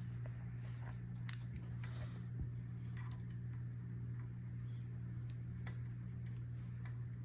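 Scattered light clicks and ticks of a hex key tightening screws into a 3D printer frame, over a steady low hum.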